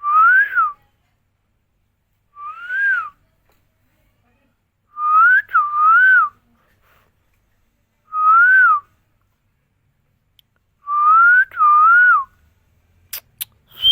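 Pet green parrot whistling: short rising-and-falling whistle notes repeated every two to three seconds, some single and some in quick pairs.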